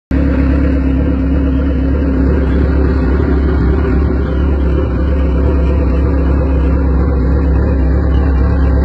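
Kawasaki sportbike's inline-four engine idling steadily, a loud low rumble with no revving.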